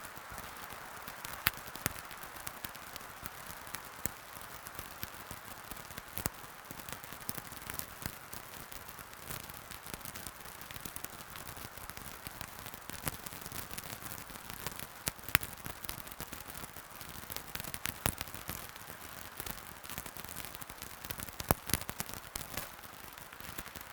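Wood fire burning in a fireplace, crackling steadily with irregular sharp pops, a few of them loud, over a soft hiss.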